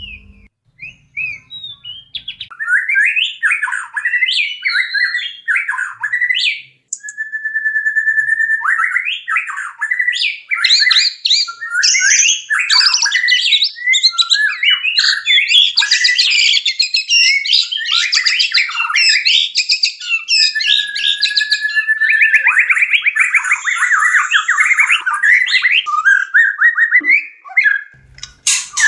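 White-rumped shama (murai batu) in breeding condition giving courtship song: a fast, varied run of whistles, chirps and chattering phrases. It includes a held whistle and, later, a rapid rattling trill.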